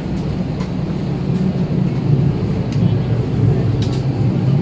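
Steady low hum inside a parked Airbus A320 cabin after arrival, with scattered faint clicks and knocks.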